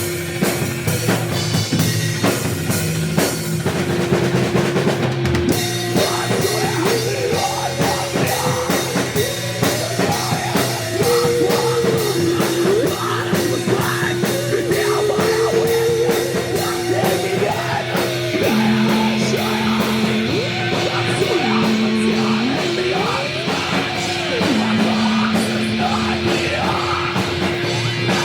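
Noise-rock band playing: a drum kit beats steadily under a held guitar drone, while wavering, gliding pitched lines rise and fall above it.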